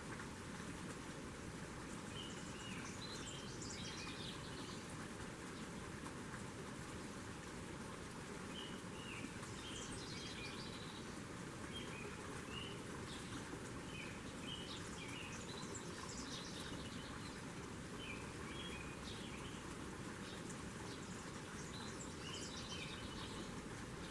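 Small birds chirping in short twittering bursts every few seconds over a steady hiss of outdoor background noise.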